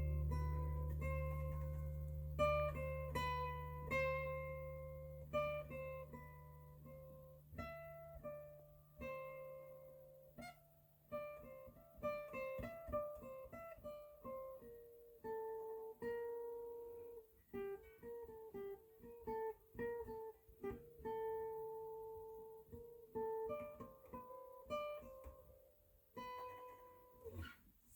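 Acoustic guitar picked one note at a time in a slow melody, each note ringing and fading. Low bass notes carry over and die away during the first several seconds.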